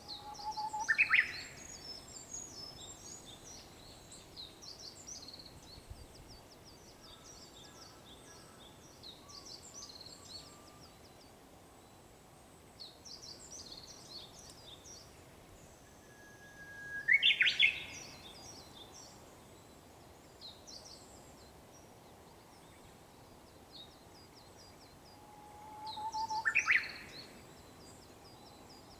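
Japanese bush warbler singing its song three times, each a long held whistle breaking into a quick rising flourish. Other small birds chirp high and rapidly throughout.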